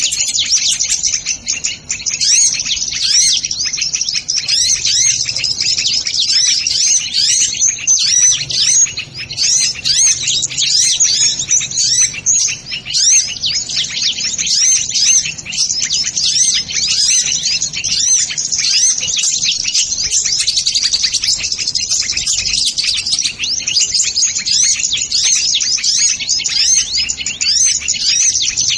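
Sunbirds (kolibri ninja) chirping: a dense, continuous stream of rapid, high-pitched overlapping chirps without a pause.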